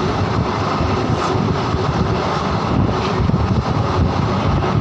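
A train running at speed: a loud, steady rumble with no let-up.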